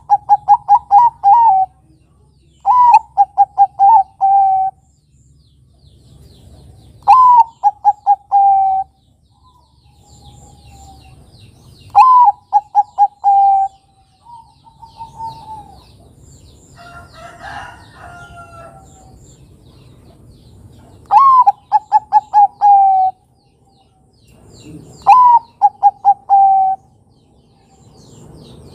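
Zebra dove (Bangkok perkutut) cooing, six times. Each song is a higher opening note followed by a quick run of short, even coos, about a second and a half long. The songs come every few seconds with gaps between them, over faint background chirps of smaller birds.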